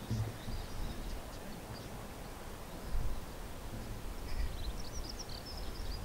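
Small birds chirping over a low, uneven background rumble, with a quick run of chirps from about four seconds in.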